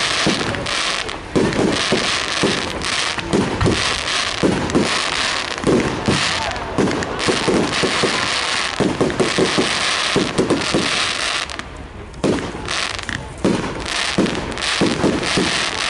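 Fireworks display going off: a continuous dense crackling with repeated bangs, easing briefly about twelve seconds in before picking up again.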